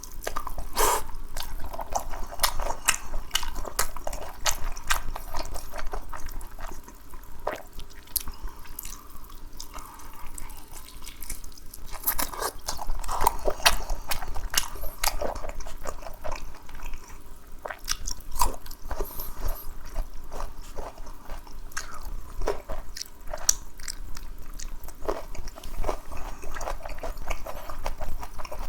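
A person biting and chewing food close to the microphone, a dense run of small clicks, crackles and wet mouth sounds.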